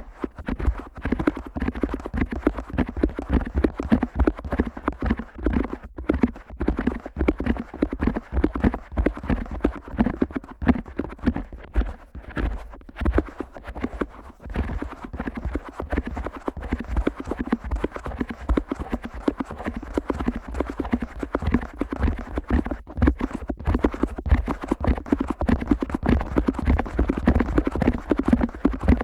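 Fingers flicking hard against the ears of a Neumann KU100 dummy head microphone, heard close up as a fast, dense run of thuds and taps with a deep low thump.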